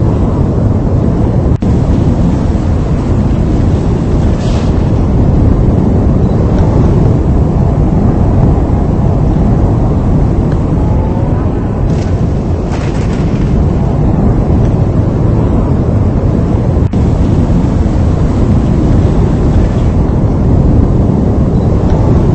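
Strong wind buffeting the microphone: a loud, steady low rumble with a few brief hissy gusts.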